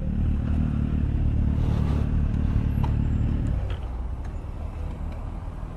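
Motorcycle engine running at low revs as the bike pulls over; the engine sound drops away about three and a half seconds in.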